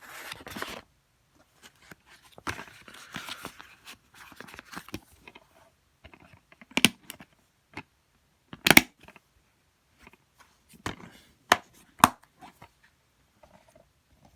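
Plastic DVD cases being handled: rustling and scraping for the first few seconds, then a run of sharp, separate plastic clicks, the loudest about nine seconds in.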